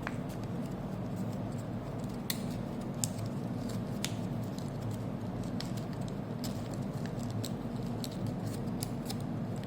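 Thick origami paper being turned over, folded and creased by hand: scattered sharp crackles and ticks of stiff paper.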